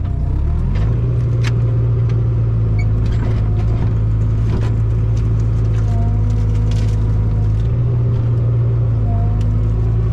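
Mini excavator engine running under load, its pitch stepping up about a second in and then holding steady, with scattered knocks and clanks from the machine at work and a couple of short squeaks.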